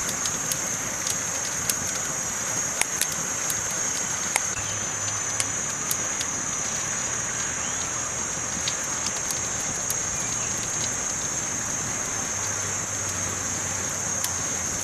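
Campfire burning: wood crackling, with scattered sharp pops and snaps over a steady hiss.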